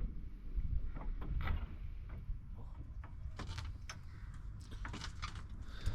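Scattered light clicks and knocks of tools and car parts being handled during shifter removal, over a low rumble.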